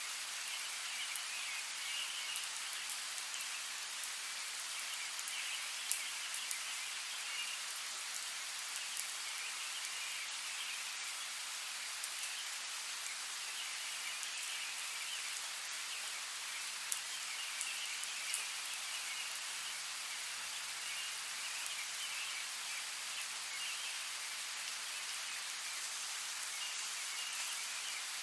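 Steady rain falling, an even hiss with a few sharper, louder drop hits now and then.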